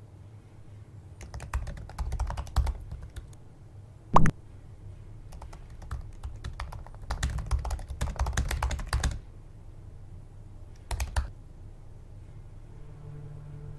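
Laptop keyboard typing in bursts of rapid keystrokes, with one louder thud about four seconds in. A low steady hum comes in near the end.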